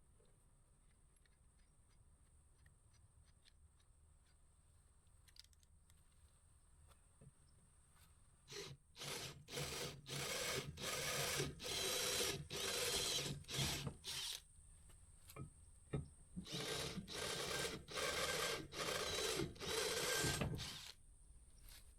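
Handheld power tool working steel in repeated short bursts of about a second each, starting and stopping over and over, after several seconds of faint clicks and handling.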